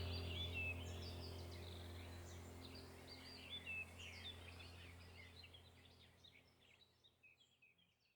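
Birds chirping in quick short calls over a low steady drone, the whole sound fading out gradually to silence.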